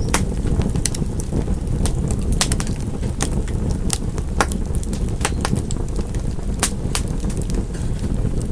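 Wood fire crackling: irregular sharp pops and snaps, a few loud ones among many small ticks, over a steady low rumble.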